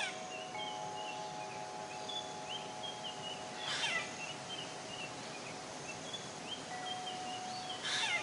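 Relaxation soundscape of long, ringing chime-like tones layered with short, high bird chirps. About every four seconds a brief, louder call sweeps down in pitch.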